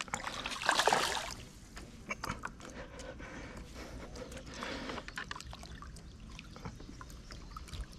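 Water trickling and lightly splashing beside a kayak, louder for a moment about a second in, with a few small knocks scattered through.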